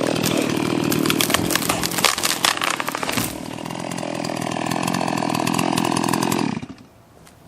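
Ported Stihl two-stroke chainsaw at full throttle, cutting into a tree. It runs rough and uneven for the first three seconds, then at a steadier pitch, and drops away abruptly near the end.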